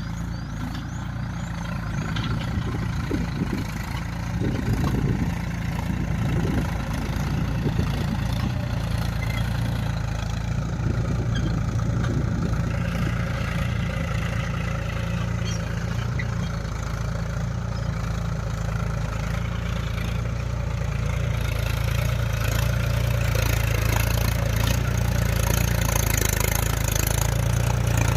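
Mahindra tractor's diesel engine running steadily, growing slightly louder toward the end.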